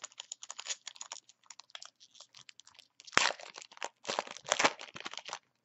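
Plastic trading-card pack wrapper being crinkled and torn open, a dense run of crackles that is loudest about three seconds in and again near the end.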